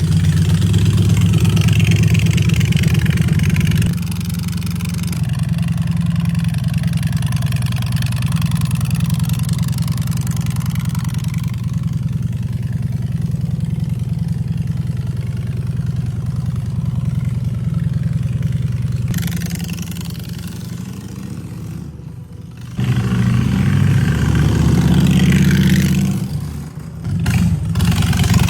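2017 Honda Fury's 1,300 cc fuel-injected V-twin running at a steady idle, then revved up twice near the end.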